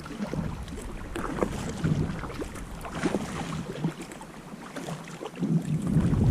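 Sea kayak paddle blades dipping and splashing in the water, roughly one stroke a second, with wind on the microphone.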